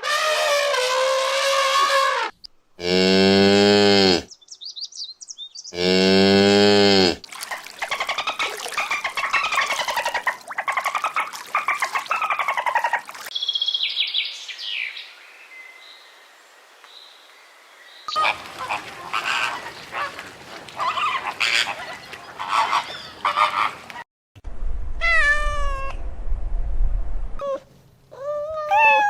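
A series of different farm animal calls, one after another. Two long, low moos come a few seconds in, followed by many shorter calls and a stretch of faint high chirping.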